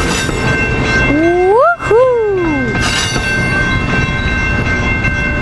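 Amtrak passenger train with cab car 6905 and F59PHI locomotive 454 moving along the platform, a steady rumble with several steady high tones. Between about one and three seconds in, a pitched whoop rises, breaks off for a moment, then falls away.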